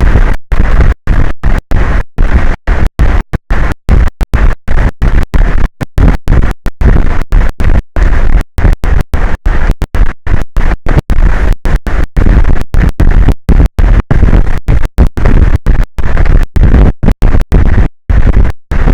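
Loud, rough, distorted noise with most of its weight in the low and middle range, chopped by many brief dropouts at irregular intervals, several a second.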